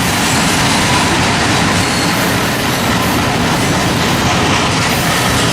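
Freight train of slab cars rolling past close by: a loud, steady rumble and rattle of wheels over the rails, with faint wheel squeal.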